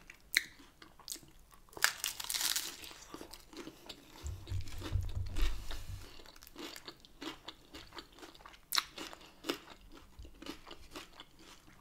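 Close-up chewing and crunching of a crisp tortilla topped with ceviche, with scattered small clicks and crackles.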